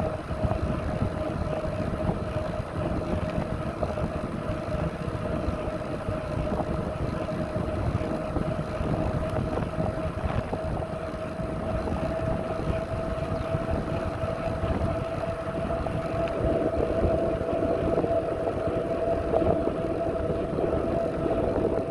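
Riding noise on a moving bicycle: wind buffeting the microphone and a rough rumble, with a steady high whine held throughout. The rumble grows a little louder about three quarters of the way through.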